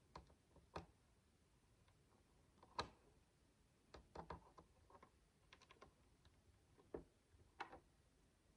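Micro bricks (miniature building bricks about a third the size of standard ones) clicking and tapping as they are handled and pressed together: a scattered series of faint, sharp small clicks at irregular intervals, the loudest about three seconds in.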